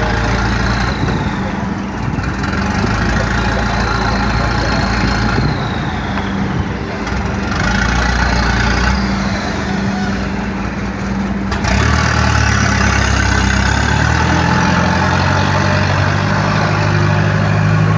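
An engine running steadily at idle. About twelve seconds in its low drone grows louder, and its pitch rises slightly toward the end.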